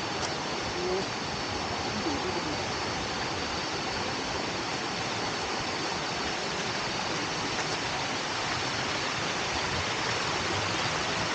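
Steady rushing of a waterfall and its stream, an even, unbroken wash of water noise.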